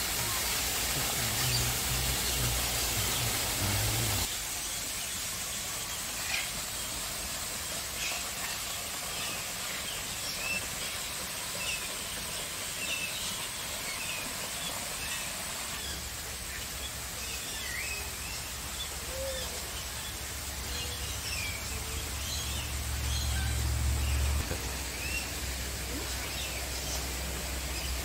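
Aviary birds chirping and calling, short scattered calls over a steady background hiss. Music plays for the first four seconds and stops suddenly. A low hum comes in around the middle and cuts off a few seconds before the end.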